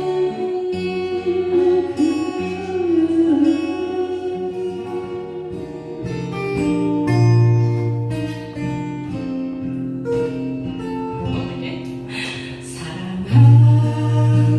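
Acoustic guitar playing with a voice singing a song.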